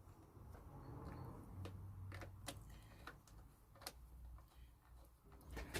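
Near silence, broken by faint, irregular clicks and taps of small parts and tools being handled.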